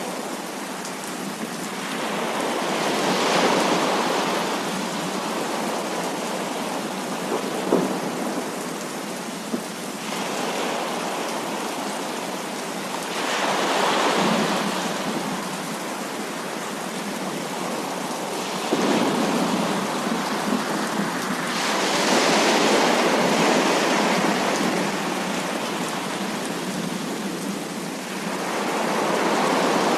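Heavy rain falling steadily with thunder that swells and fades several times, rolling in long waves. Two short sharp cracks stand out about eight and ten seconds in.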